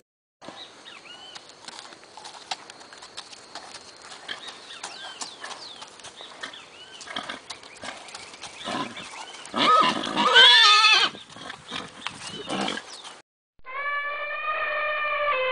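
A horse neighs once, loud and quavering, about ten seconds in, over a faint background with small chirps. A second and a half before the end, a long, steady, brass-like elephant trumpet call starts.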